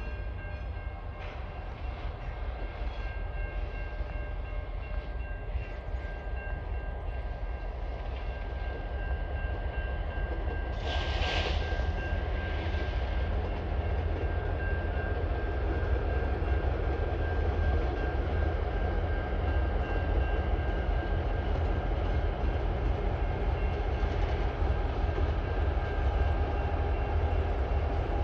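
Diesel locomotives hauling a freight train, their low engine rumble growing steadily louder as the train approaches. A faint steady high-pitched tone runs through it, and a short burst of hiss comes about eleven seconds in.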